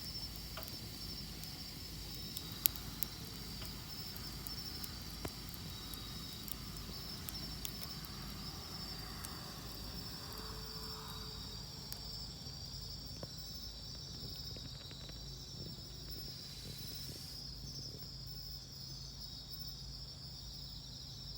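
Wood campfire crackling with scattered pops, the loudest a sharp crack about two and a half seconds in, over a steady high chirring of insects.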